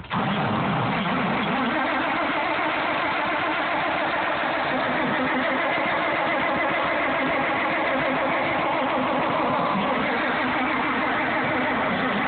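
Farmall 460 tractor's engine on a cold start, catching abruptly and then running steadily at a constant level.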